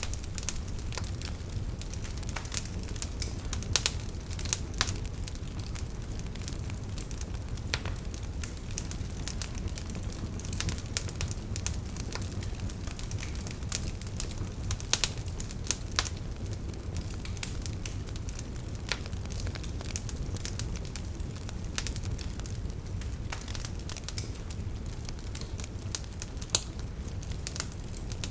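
Campfire of burning firewood crackling, with scattered sharp pops over a steady low rumble of the flames.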